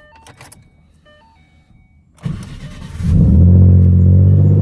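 The 2011 Mustang's 3.7-litre V6, twin-turbocharged, is started from cold with the key. A couple of short electronic beeps come first, then the starter cranks briefly about two seconds in, and the engine catches and settles into a loud, steady idle.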